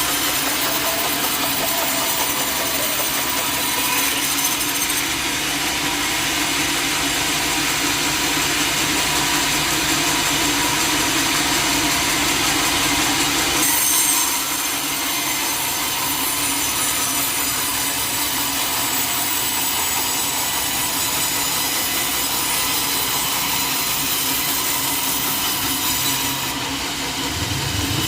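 Sawmill saw cutting through teak wood: a steady, loud sawing noise of blade in timber, shifting slightly about halfway through and dipping briefly near the end.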